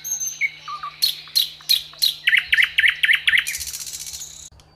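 Small songbirds chirping: a few sharp high chirps, then a quick run of about seven repeated notes, then a buzzy high trill near the end.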